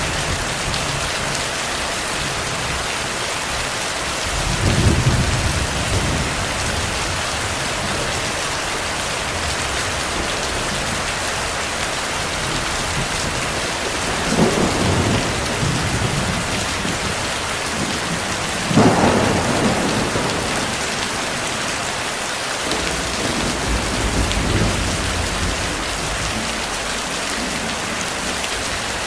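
Steady heavy rain hissing, with rolls of distant thunder rumbling low about five, fourteen and nineteen seconds in.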